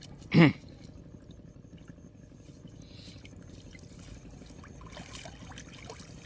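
A short, loud whoosh falling in pitch about half a second in, then a low steady hum, with water trickling and dripping near the end.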